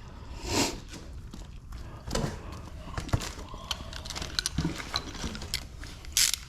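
Hand tools and hardware being handled and set down on a garage floor: scattered clinks and knocks, with a short rustle near the end.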